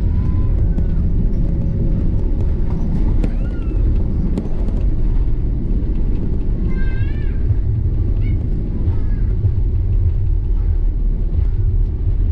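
Steady low rumble inside the cabin of an Airbus A330-300 on the ground after landing, from its engines and the aircraft rolling along. Faint passenger voices rise above it about seven seconds in and again near the end.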